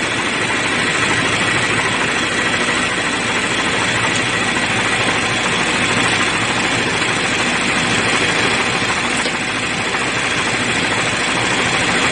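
2013 Chevy Malibu's 2.5-litre four-cylinder engine idling steadily with its ground cable unhooked from the block, which is upsetting the engine computer (PCM).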